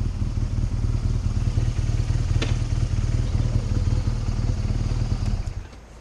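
BMW R1200GS motorcycle under way: a steady low rumble of its flat-twin engine and wind, with a single click about two and a half seconds in, cutting off about five and a half seconds in.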